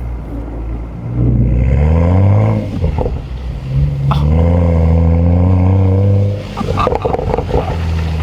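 BMW M235i's turbocharged 3.0-litre straight-six revving under throttle twice, its pitch climbing each time and dropping off about two and a half seconds and about six and a half seconds in, as the rear-drive car slides on snow.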